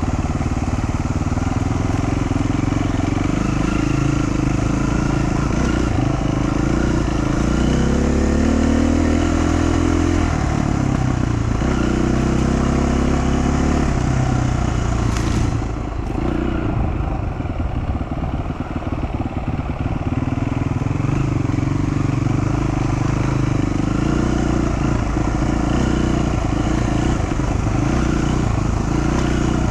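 Dual-sport motorcycle engine running on a trail ride, its pitch rising and falling as the throttle is worked. About halfway through the throttle briefly closes, then the engine runs on rougher and choppier.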